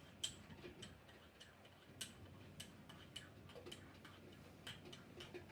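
Faint, irregular clicks of a spoon knocking against the side of a pan while stirring hot chocolate milk, about one or two a second.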